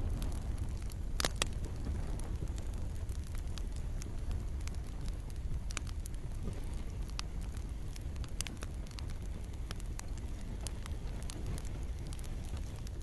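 Campfire burning, with scattered crackles and sharp pops over a steady low rumble, and a couple of louder pops about a second and a half in. Gentle rain falls in the background.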